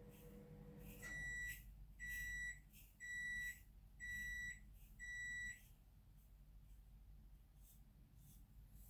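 Electronic beeper sounding five times, about one beep a second, each a high steady tone about half a second long.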